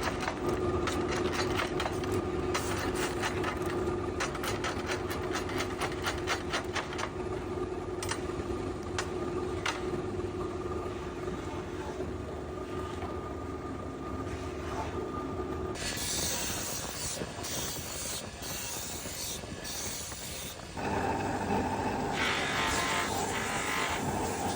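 Factory machinery on a plate production line running with a steady hum and a fast run of clicks and ticks. The sound changes twice, about sixteen and twenty-one seconds in, turning into a higher, hissier noise and then a louder, higher hum.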